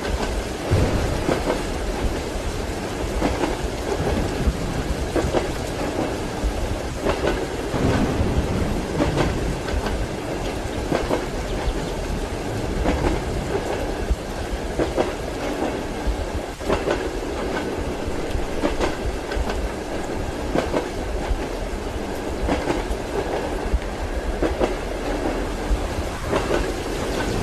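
Steady rumble of a passenger train carriage riding the rails, with the wheels knocking over rail joints every second or so, and rain running underneath.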